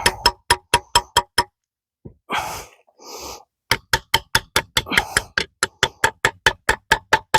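A small hammer tapping a steel punch in quick, even strikes, about five a second, each with a short metallic ring. It is driving a pin out of a 1940s Ford transmission. The tapping stops for about two seconds near the middle, with a brief rustle, then starts again.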